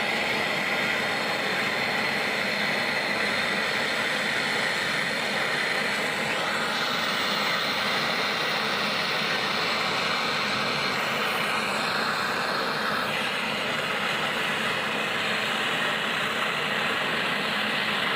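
Handheld gas torch flame burning with a steady hiss while heating copper for silver brazing. The tone shifts slightly a few times.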